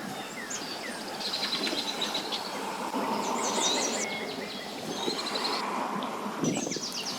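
Birds chirping and trilling in short repeated phrases over a steady outdoor background noise.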